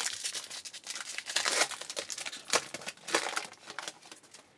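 Trading card pack wrapper crinkling and tearing as a pack is ripped open and handled, a dense run of sharp crackles that dies away near the end.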